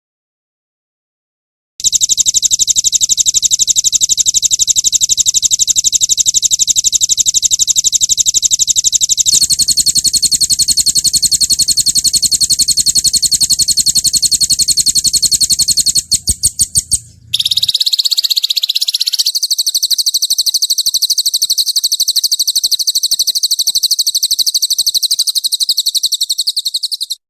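A songbird's high-pitched song delivered as very fast, evenly repeated trills: 'roll tembak' rapid-fire phrases used as a training recording for caged songbirds. After a short silence the trills start, and the pattern switches abruptly a few times. There is a brief broken stretch of separate notes and a varied phrase before another long trill, which cuts off suddenly near the end.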